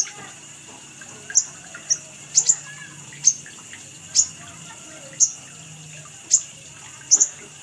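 Little spiderhunter (sogon) calling: sharp, high, short chips repeated about once a second, a few in quick pairs, over fainter chirping from other birds.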